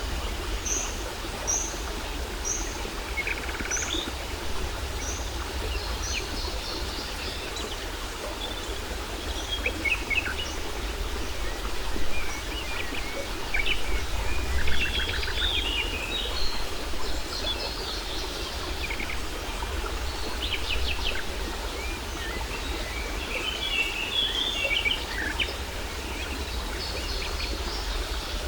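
Waterfall rushing steadily with a low rumble, while several small birds chirp and trill over it. For the first six seconds or so, one bird repeats a short high note about every half second.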